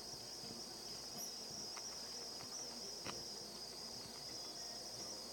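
Steady high-pitched background drone, with a couple of faint clicks.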